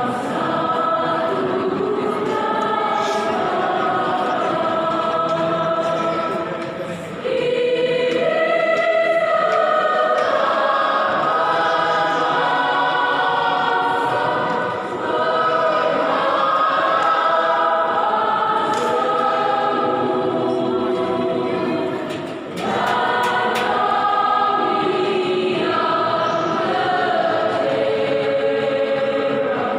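Mixed church choir singing a hymn in several parts, in long sustained phrases with short breaths between them, about 7, 15 and 22 seconds in.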